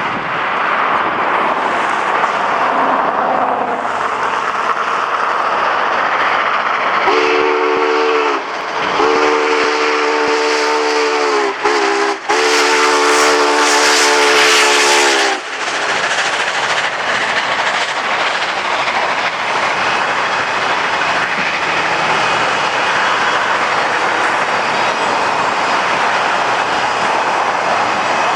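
A train running by, sounding its chime horn in a long, long, short, long pattern, the standard grade-crossing signal, over the steady noise of the passing train.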